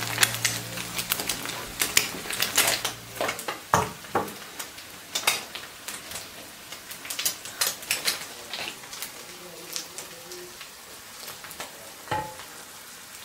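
Cooking sounds: irregular clinks and taps of utensils and dishes over a faint steady sizzle. Low music tones fade out in the first few seconds.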